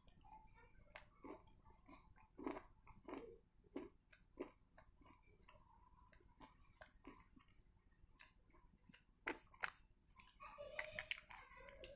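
Close-up chewing of crunchy edible clay: irregular crisp crunches and mouth clicks as the pieces are bitten and ground.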